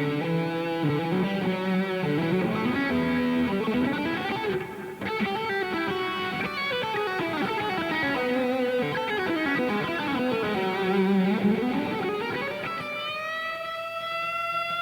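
Electric guitar played through a Revv G3 preamp/overdrive pedal on its red channel into a Mesa Boogie amp, with delay and reverb after it. A lead line of sliding notes ends on a long held note with vibrato about 13 seconds in.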